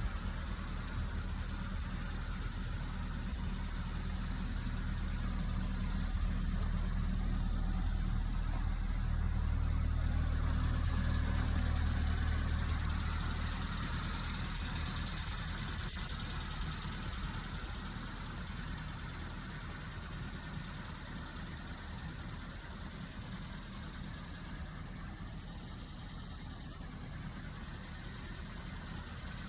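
Nissan Datsun pickup truck engine running with a steady low hum, swelling louder for several seconds around the middle, then settling back to a steady idle-like run.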